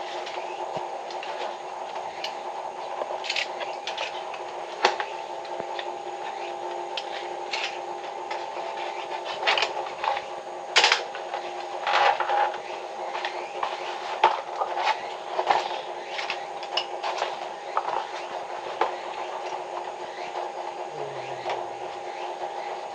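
A steady hum of several even tones, with scattered sharp clicks and knocks over it; the loudest knock comes about eleven seconds in.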